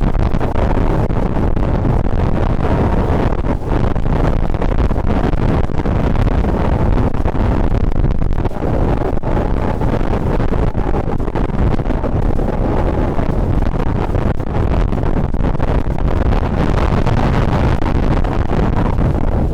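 Strong wind buffeting a shotgun microphone fitted with a furry windshield: a loud, steady low rumble with constant fluttering gusts that the windshield fails to stop.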